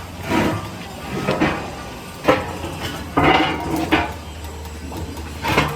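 Steel parts clanking and scraping in a fabrication shop: irregular metallic knocks and short scrapes, about one a second, over a low steady machine hum.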